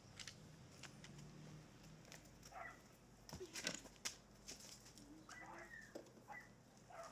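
Faint scattered clicks and taps, with a few brief faint chirp-like calls.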